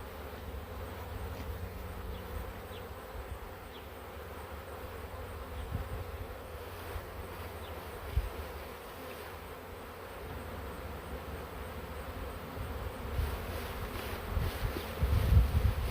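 Honey bee swarm buzzing steadily, many bees in flight around the hive box. A low rumble builds near the end.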